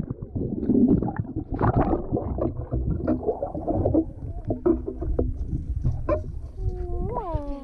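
Pool water sloshing and splashing close to the microphone as otters swim and clamber around a person in the water. Near the end comes a brief high sound that falls in pitch.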